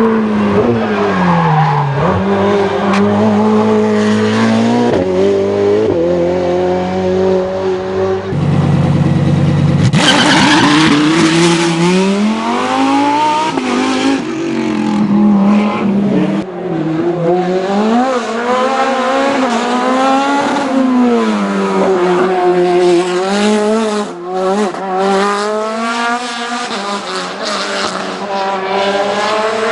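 Racing car engine at high revs, its pitch climbing and dropping again and again through gear changes and braking.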